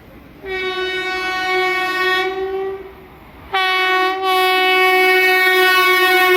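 Vande Bharat Express train horn sounding two long blasts, the second held longer, as the train approaches at speed, with the rush of the passing train building near the end.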